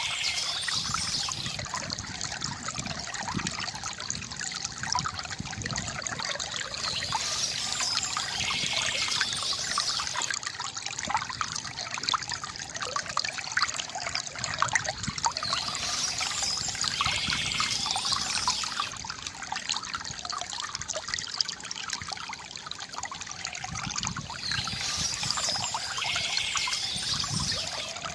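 Water trickling and splashing steadily from a bamboo fountain. A short bird call recurs about every eight to nine seconds.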